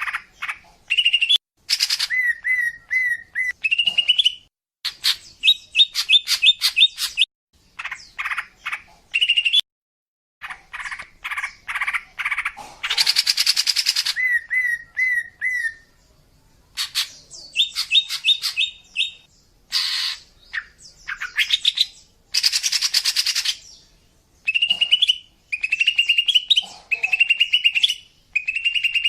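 Female cucak ijo (green leafbird) calling in phrases of quick chirps and repeated short notes, broken by harsh chattering bursts, with short pauses between phrases. These are the female calls that keepers play to lure male cucak ijo.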